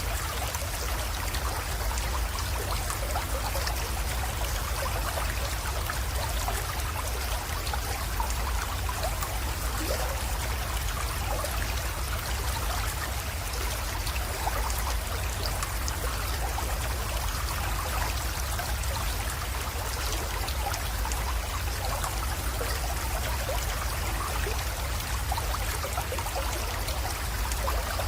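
Small creek water trickling and flowing steadily into a pond, with fine splashy ticks over a steady low rumble.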